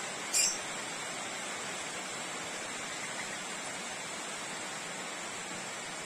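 A single short, high-pitched chirp from a caged bird about half a second in, over a steady background hiss.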